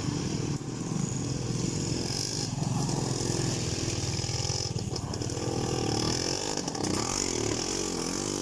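Small off-road engines running and revving unevenly as a quad bike sets off through snow.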